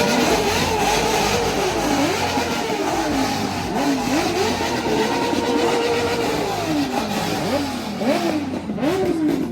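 Car engine revved hard over and over, its pitch climbing and dropping in quick succession, held high at the top for a couple of seconds in the middle, then blipped rapidly again near the end.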